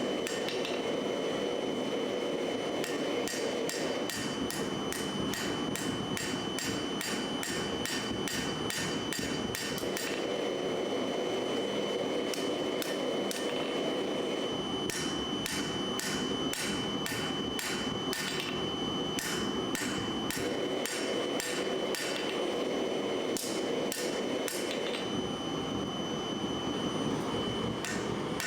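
Hammer blows forging hot steel on an anvil, about two a second, in runs broken by short pauses. A steady rushing noise runs underneath.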